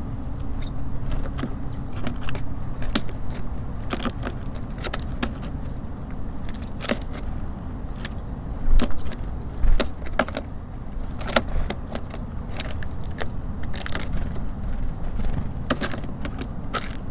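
Small birds pecking and tapping at seeds on a wooden bird feeder: irregular sharp clicks and knocks, with two heavier thumps about halfway through. A steady low rumble of city traffic runs underneath.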